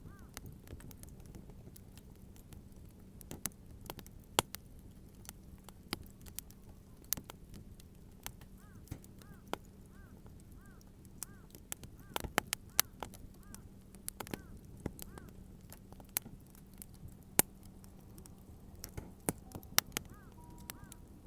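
Wood fire crackling, with sharp irregular pops and snaps, the loudest at about four, twelve and seventeen seconds in, over a faint steady hum.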